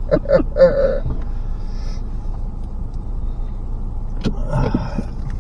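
Steady low rumble of a pickup truck driving, engine and road noise heard from inside the cab. A voice is heard briefly at the start and again near the end, with a sharp click about four seconds in.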